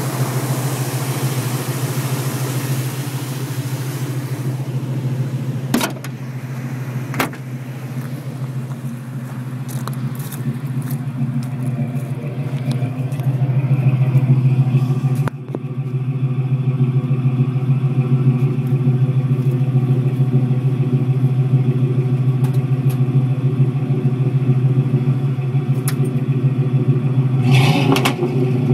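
1983 Ford Mustang GLX's 5.0 H.O. (302) V8 with a four-barrel carburetor idling steadily, with a couple of sharp knocks about six and seven seconds in.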